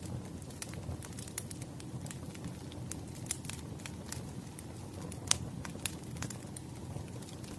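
Burning firewood crackling: irregular sharp pops and snaps over a low, steady rumble of flames, with one louder pop about five seconds in.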